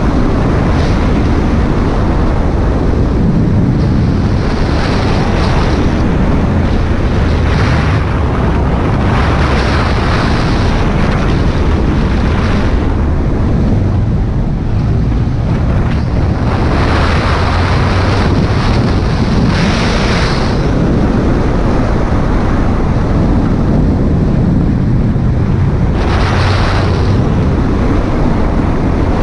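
Wind rushing over the microphone of a moving motorcycle, with the engine's low rumble underneath; the hiss swells several times as the wind gusts or the speed changes.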